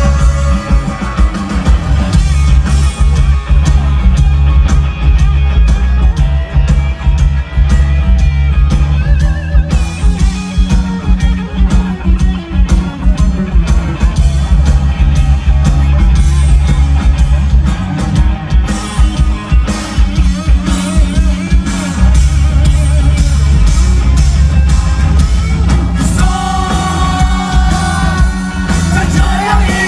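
Rock band playing live, loud, with a heavy drum beat and bass, and singing at times.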